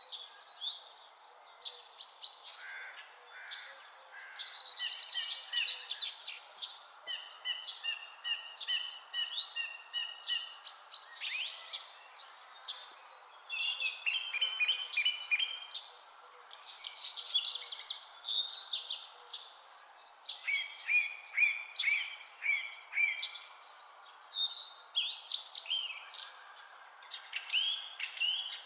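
Several songbirds singing and calling together, overlapping chirps, trills and whistled phrases, over a steady background hiss.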